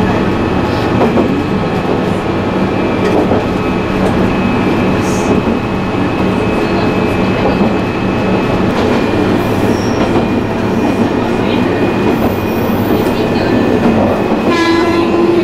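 Diesel railcar running, heard from inside at the front of the car: a steady engine drone with wheel noise on the rails. A short horn note sounds near the end.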